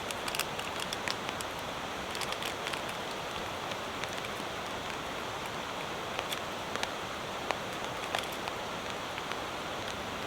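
Steady rain falling, heard as an even hiss with scattered sharp ticks throughout.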